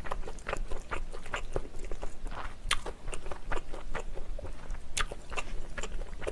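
Close-miked chewing of jjajangmyeon, black bean sauce noodles, with irregular wet mouth clicks and smacks several times a second.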